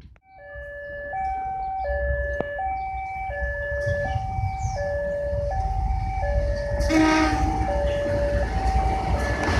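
Electronic two-tone railway warning signal sounding over and over, two notes alternating evenly, under the low rumble of an approaching train that grows louder toward the end.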